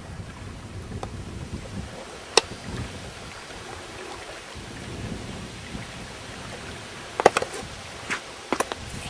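Wind rumbling on the microphone, with a sharp knock about two seconds in and a quick run of sharp knocks near the end.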